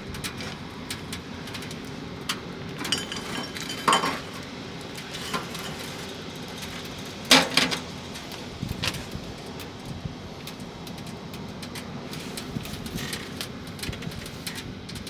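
Steady rain falling on the camper, with a few light metal clinks of cookware or utensils, the loudest about seven seconds in and another about four seconds in.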